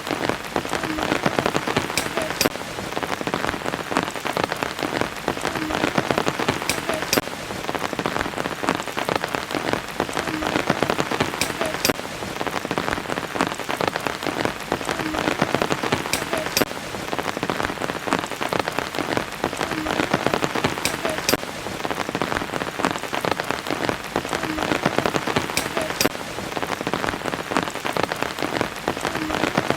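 Steady rain falling on a surface, with a few sharp drops standing out about every four to five seconds.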